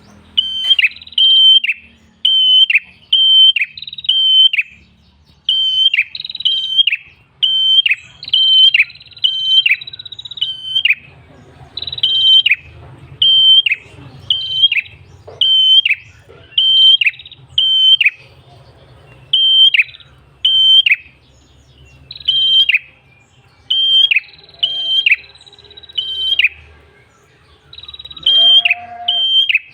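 Tailorbird (prenjak kepala merah) calling loudly and continuously: a rapid series of sharp, high chirps, each dropping in pitch, given in runs of two to four with short pauses between runs. Near the end comes a brief lower call.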